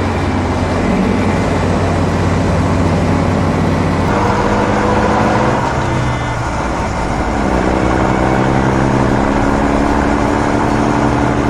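Heavy diesel machinery engine running loud and steady, its note changing about four seconds in and again about seven seconds in.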